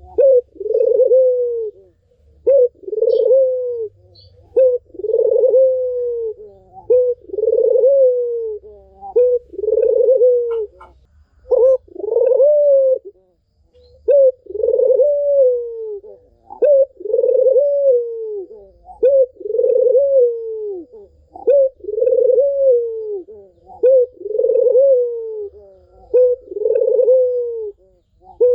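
Barbary dove (puter) cooing over and over, each call a short note followed by a longer falling coo, about one every second and a half: a recording played to get a silent puter to start calling.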